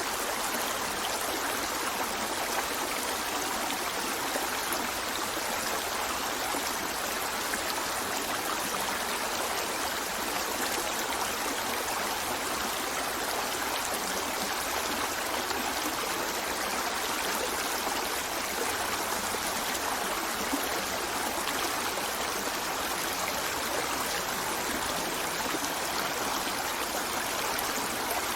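River water running steadily over stones, a continuous rushing with a trickling, babbling texture.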